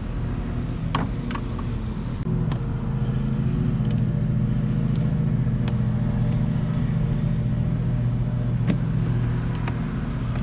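A vehicle engine running steadily, getting louder about two seconds in. A few light clicks of a screwdriver working the air-intake hose clamp.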